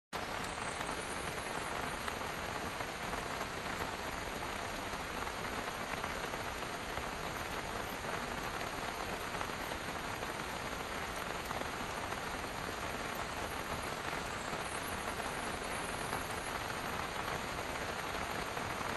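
Steady rain falling on a parked car, a dense even patter of drops on the roof and glass.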